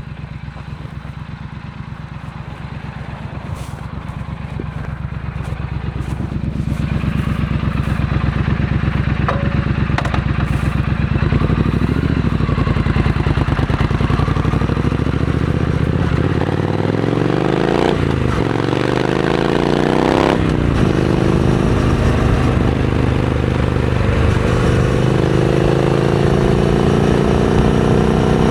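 Triumph Scrambler 900 parallel-twin with a Vance & Hines aftermarket exhaust, running with an even pulse and growing louder. About halfway through, the engine speed climbs, drops back and climbs again, then holds at higher revs.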